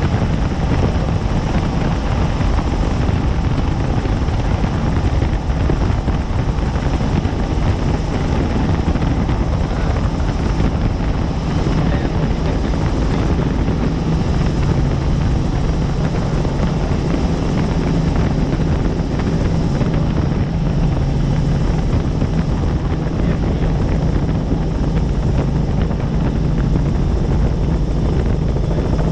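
Helicopter in steady flight, heard from aboard: engine and rotor running loud and unchanging, with a strong low drone.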